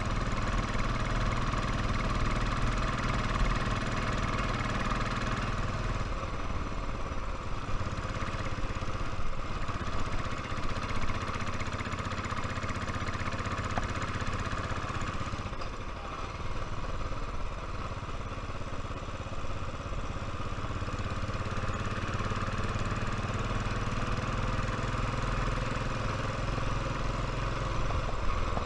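Royal Enfield motorcycle engine running steadily under way. The engine note changes about six seconds in and again near sixteen seconds.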